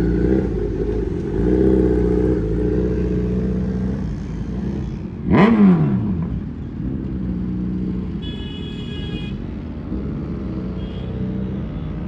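Suzuki Hayabusa inline-four engine running steadily, with a fast vehicle pass-by about five and a half seconds in, its pitch sweeping down sharply as it goes by. A short high-pitched tone sounds around eight seconds in.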